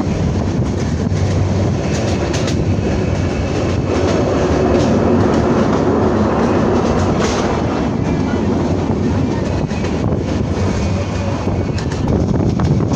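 Passenger train running on the rails: a steady rumble with the clickety-clack of wheels over rail joints and faint high squeals.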